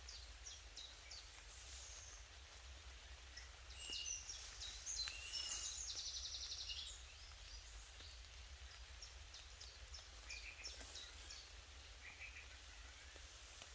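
Songbirds singing in woodland: scattered high chirps and short whistles, with a rapid trill about five seconds in. A faint steady low rumble runs underneath.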